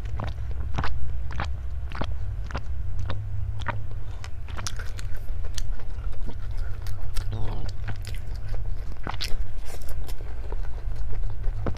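Close-miked eating: irregular crunchy bites and chewing of food, a sharp crackle every half second or so, over a steady low hum.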